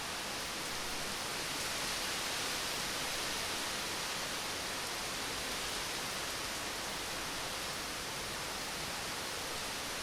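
Steady rain falling, an even, dense hiss with no thunder in this stretch.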